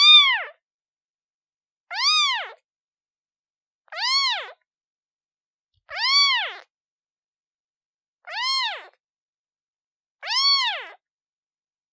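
Newborn kitten meowing over and over, six high meows about two seconds apart, each rising and then falling in pitch. Calling for its mother.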